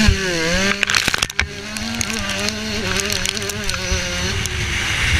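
Motocross bike engine heard from the rider's helmet, revving during a race. The revs dip and pick up again, there is a short burst of clattering knocks about a second in as the engine briefly cuts, and then the engine holds a fairly steady note.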